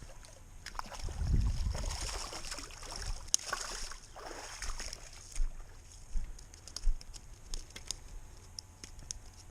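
Water splashing and sloshing, with scattered small clicks and knocks. The sound swells over the first few seconds and then thins out to sparse clicks.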